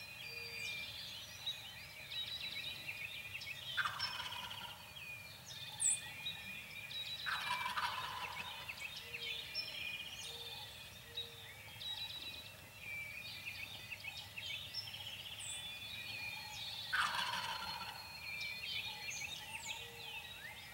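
Wild turkey gobbling three times, twice in the first half and once near the end, with songbirds chirping and singing throughout.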